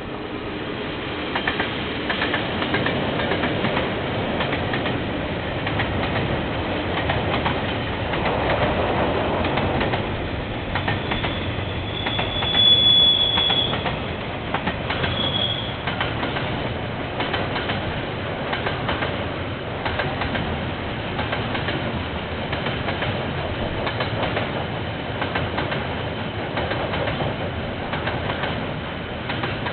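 A KiwiRail train passing: a steady rumble with wheels clicking over the rail joints. A high-pitched wheel squeal rings out about twelve seconds in, the loudest moment, and briefly again a couple of seconds later.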